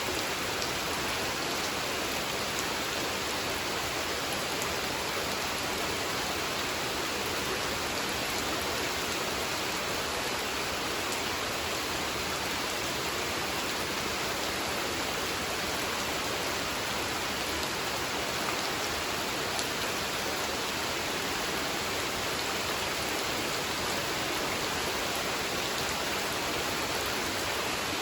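Steady rain falling on a pond: an even hiss of rain on the water with faint scattered drop ticks, no thunder.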